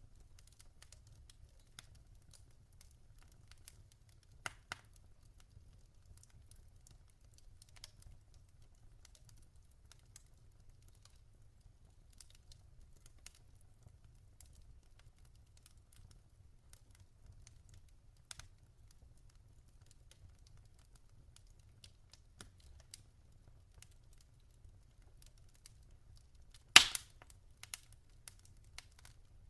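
Log fire crackling in a fireplace: scattered faint ticks and snaps, a couple of louder snaps about four and a half and eighteen seconds in, and one sharp loud pop near the end, over a faint low rumble.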